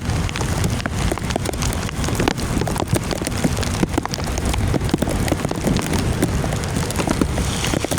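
Heavy rain falling, with many sharp drops striking close to the microphone in a dense, steady stream of clicks.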